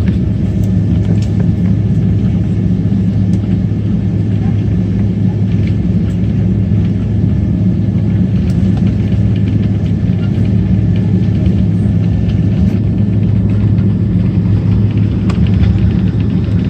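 Steady low cabin rumble inside a taxiing Boeing 777-200ER, its GE90 engines running at low power, with a few faint clicks.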